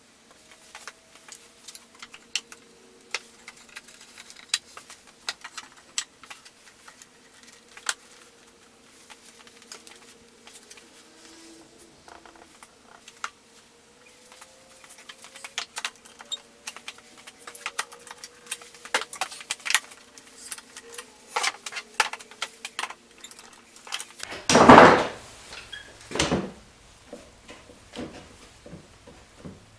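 Pine boards and clamps being handled during a glue-up: many small clicks and knocks of wood and metal, growing busier, with one loud scraping rush lasting about a second near the end.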